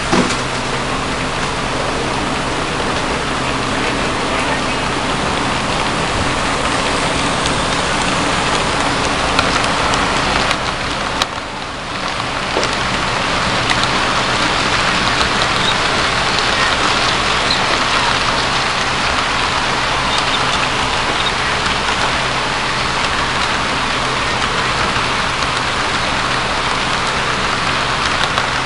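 Model train running on its track: a steady rushing of wheels over rail joints with the hum of the motor and transformer underneath, dipping briefly about eleven seconds in.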